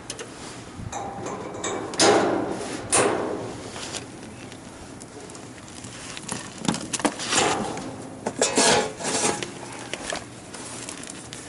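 Hand tools knocking, clinking and scraping against metal in irregular bursts.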